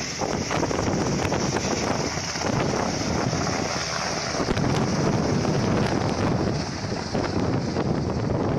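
Helicopter running close by, a loud steady roar with its rotor wash buffeting the microphone.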